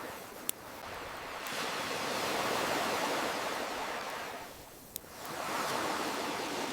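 Ocean waves washing in and drawing back, swelling about two seconds in and again near the end, with two sharp pops from a crackling campfire, one about half a second in and another about five seconds in.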